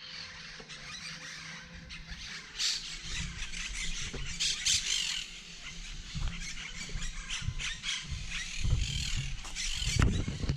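Wild parrots squawking in the trees, with repeated shrill calls. Short low thumps on the microphone come now and then, the strongest near the end.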